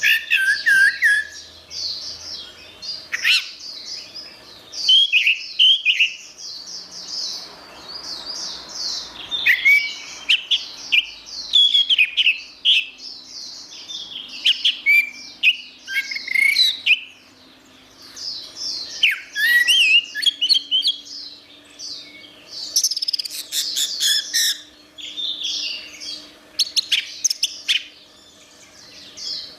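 Orange-headed thrush singing: long runs of fast, varied high chirps and whistled sweeps, broken by short pauses.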